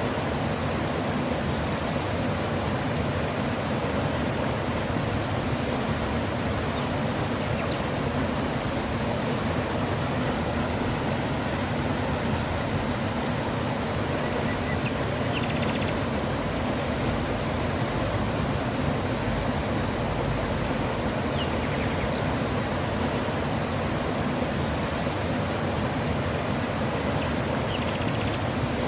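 Mountain river flowing: a steady rush of water. Over it, a faint high chirp repeats evenly about three times a second.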